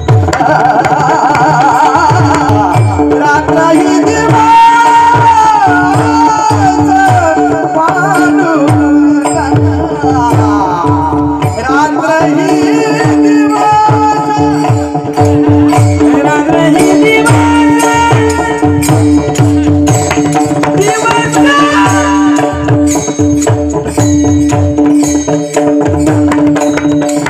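Devotional bhajan: a voice singing a winding melody over a held drone note, with steady hand-drum strokes and crisp percussion keeping the rhythm.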